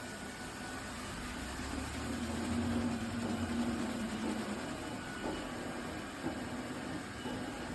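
iRobot Roomba Combo robot vacuum running across the floor, a steady motor and suction hum that swells for a couple of seconds in the first half, with a couple of light clicks around the middle.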